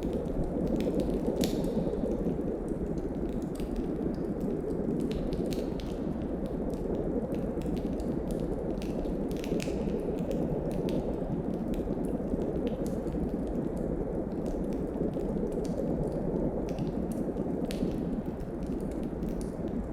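Wood fire in a fireplace crackling, with irregular sharp pops scattered through it. Under the pops runs a steady low rush of snowstorm wind.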